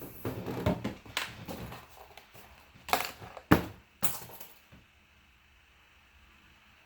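Small hard objects being handled: rattling and clattering, then a few sharp clicks or knocks about three to four seconds in, with quiet after.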